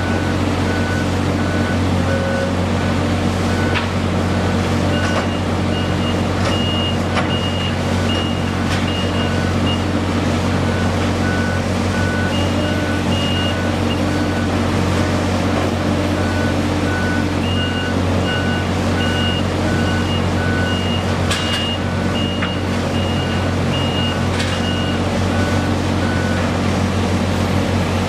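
Heavy construction machinery running steadily with a low diesel drone while two reversing alarms beep at different pitches, about two beeps a second, starting and stopping and at times overlapping. A few sharp knocks are heard now and then.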